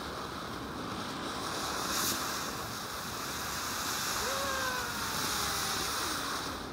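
Ground fountain firework spraying with a steady hiss, with a short louder crackle about two seconds in.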